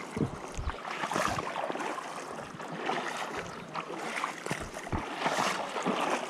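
Stream water rushing and splashing in uneven swells, with a few soft low knocks.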